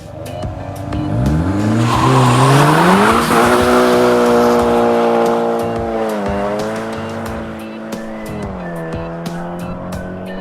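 A car engine revving hard under acceleration, its pitch climbing over the first three seconds and then holding high, dipping twice later on, with a loud rushing hiss through the middle. Background music with a steady beat plays underneath.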